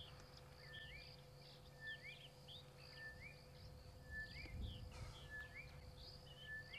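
Birds calling in the bush: one repeats a short whistled call about once a second, a level note that lifts into a brief rising-and-falling phrase, with fainter, higher chirps from other birds. A low rumble swells briefly a little past halfway.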